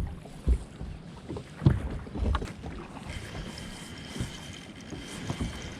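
Wind rumbling on the microphone aboard a fishing boat, with a few sharp low knocks in the first half. A faint steady high whine comes in about halfway.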